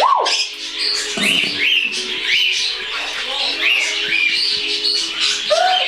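Cockatiels calling: a run of short, repeated whistled chirps, each rising then falling in pitch, overlapping from more than one bird, with a lower call at the start and again near the end.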